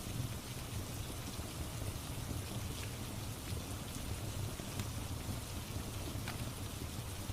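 Steady rain ambience, an even hiss with a low rumble, with a few faint clicks that fit a crackling fireplace mixed in.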